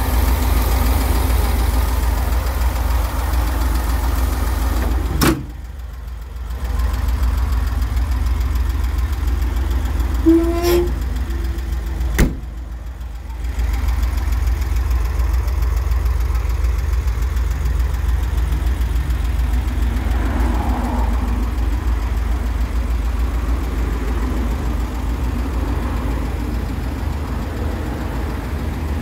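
Volkswagen Bus's air-cooled flat-four engine idling steadily. Two sharp knocks come about five and twelve seconds in, each followed by a second or so of quieter sound.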